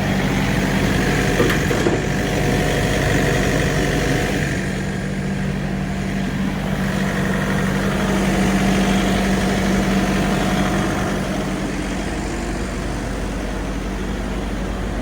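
Diesel semi-truck engine idling steadily.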